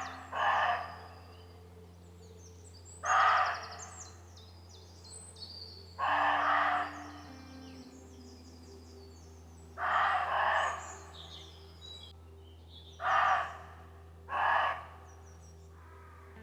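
Roe deer barking: short, hoarse single barks, one about every three seconds, with one quick double bark near the middle. Small birds are singing in the background.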